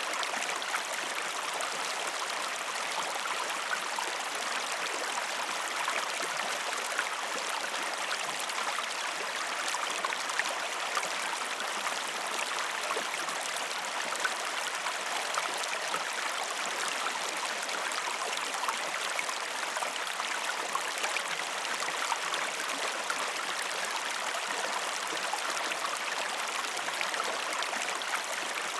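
Water of a small waterfall splashing and rushing in a steady, even wash, with fine splatter and no deep rumble.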